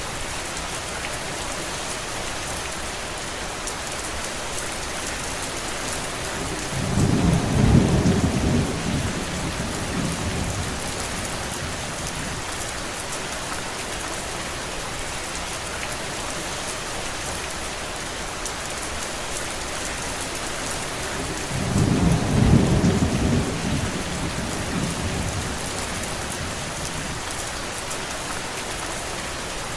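Steady rain falling, with two low rumbles of thunder, each swelling and fading over about three seconds: one about a quarter of the way in and one about three-quarters of the way through.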